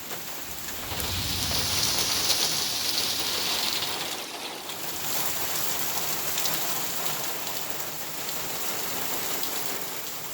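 Heavy hurricane rain pouring down: a steady hiss that swells louder about a second in, then eases a little after the fourth second.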